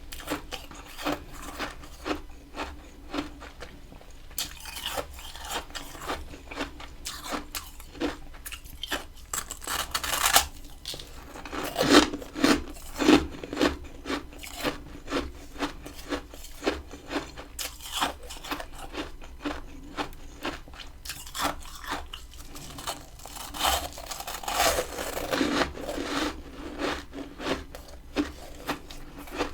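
Close-miked biting and chewing of freezer frost ice: a steady run of crisp crunches, about one or two a second, with a few louder bites partway through.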